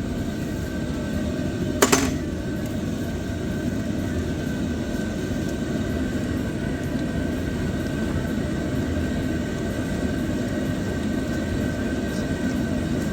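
Steady mechanical hum with a faint whine held through it, and a single sharp click about two seconds in.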